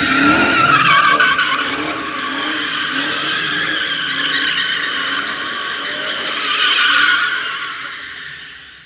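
Car tyres squealing in one long, wavering, unbroken skid as a car spins its wheels. The squeal is loudest about seven seconds in, then fades away.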